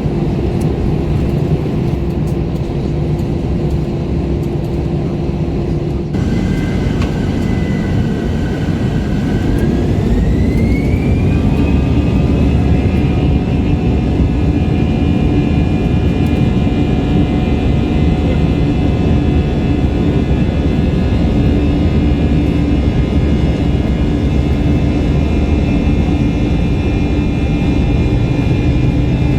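Airbus A321 jet engines heard from inside the cabin: a steady rumble, then about a third of the way in the engines spool up, their whine rising in pitch, and settle into a loud steady run with several whining tones over a deep rumble, as for takeoff thrust.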